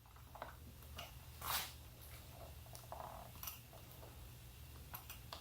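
Faint handling noises: scattered small clicks and a brief rustle of hands working among the motorcycle's wiring and parts, over a low steady hum.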